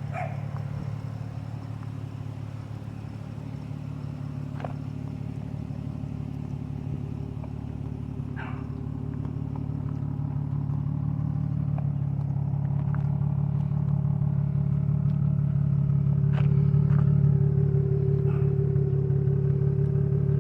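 Nissan 350Z's 3.5-litre V6 running at a steady idle through a straight-through exhaust with the resonator and muffler deleted, a deep even drone that holds its pitch and grows louder over the second half.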